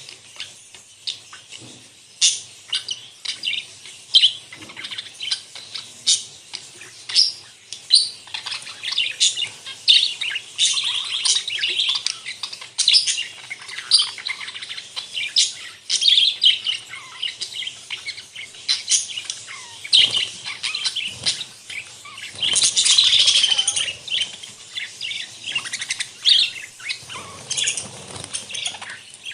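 A flock of budgerigars chirping and chattering continuously, many short sharp calls overlapping with warbling, busiest around two thirds of the way through.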